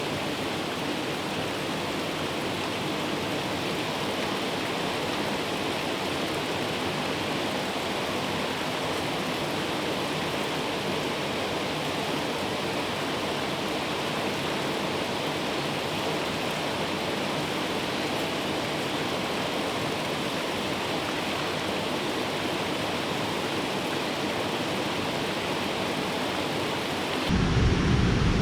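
Steady, even rushing of water. About a second before the end it gives way abruptly to a louder, deeper rumble.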